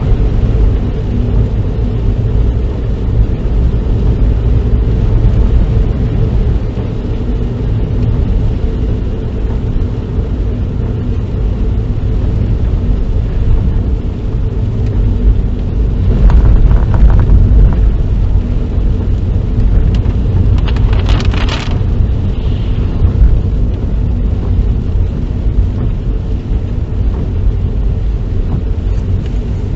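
Road noise inside a moving car: a steady low rumble of engine and tyres. A louder rushing sound comes briefly about sixteen seconds in and again about twenty-one seconds in.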